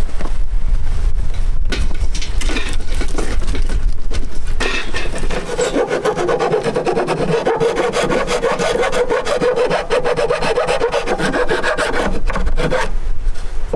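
A hand tool working wood with continuous rasping, scraping strokes.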